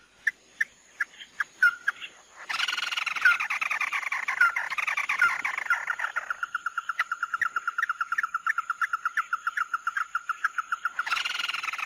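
Bird calls of the bird known in Vietnamese as mắt đỏ ('red-eye'). It starts with a handful of separate short chirps. About two and a half seconds in, the calling turns loud and dense, then settles into a long, fast, even trill of rapidly repeated notes. A louder burst of calling comes in near the end.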